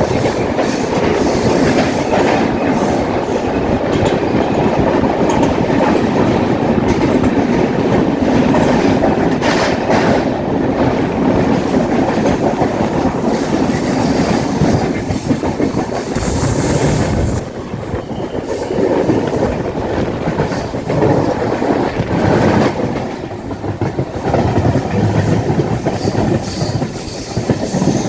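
Passenger express train running along the track, with a continuous rumble of wheels on rail and the clickety-clack of wheels over rail joints. The level dips briefly a few times in the second half.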